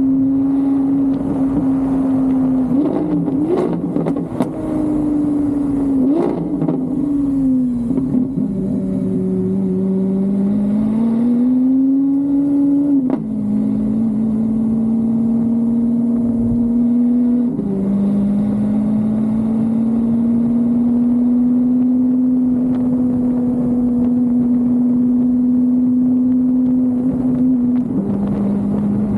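A car engine running steadily under way. Its note climbs as the car accelerates about eight seconds in, then drops abruptly three times at gear changes. A few sharp clicks and knocks come in the first few seconds.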